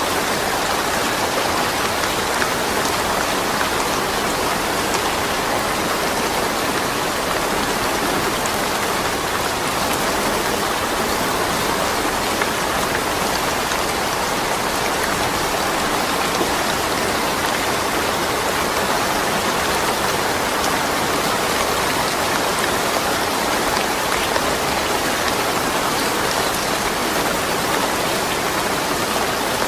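Steady rain falling, an even hiss with scattered drop ticks, no thunder.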